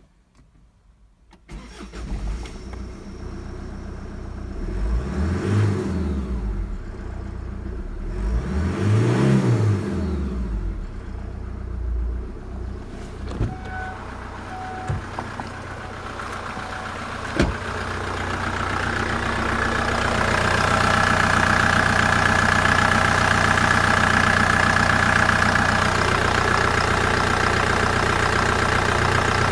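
Kia Carnival's 2.9-litre J3 CRDi four-cylinder diesel engine starting about a second and a half in, revved up and back down twice, then idling steadily. A couple of sharp clicks come partway through.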